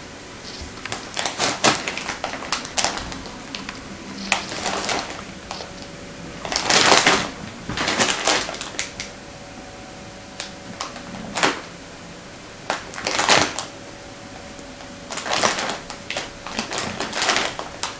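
Wrapping paper crinkling and tearing in irregular bursts as a bearded collie rips open a present, with short quiet pauses between tugs.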